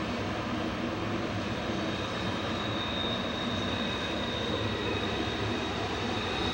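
Heavy BNSF grain train's diesel locomotives droning steadily as the train descends the grade, with a rumble of the cars rolling. A thin, steady wheel squeal from the curve comes in about two seconds in.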